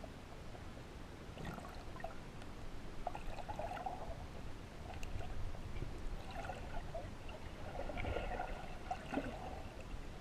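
Water splashing and trickling softly, in small uneven bursts, as in a body of water being stirred by a swimmer.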